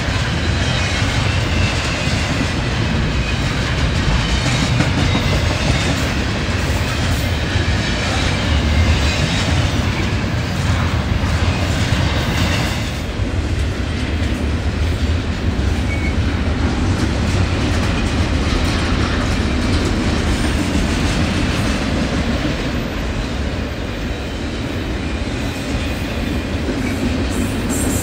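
A train's cars rolling past at close range, their wheels clacking over the rail joints in a continuous low noise.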